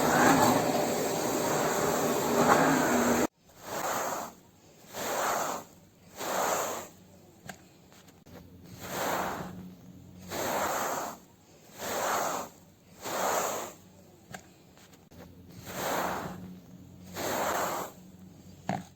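A loud steady rushing noise that cuts off suddenly about three seconds in. Then window glass is cleaned in about eleven short swishing strokes, evenly spaced at roughly one every 1.3 s.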